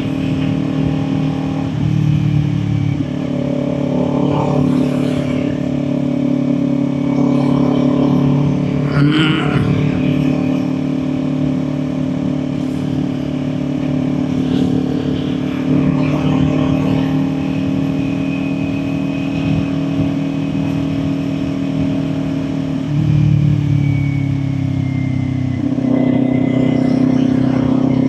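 Kawasaki Ninja 400's parallel-twin engine running steadily at cruising speed, heard from the rider's position. The engine note shifts slightly about three seconds in and again near the end. There is a brief clatter about nine seconds in.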